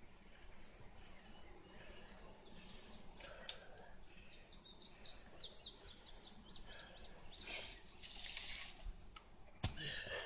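A small songbird singing in the background: a quick run of high chirping notes about halfway through, over faint outdoor noise. A single light knock comes a few seconds in, and sharper knocks near the end.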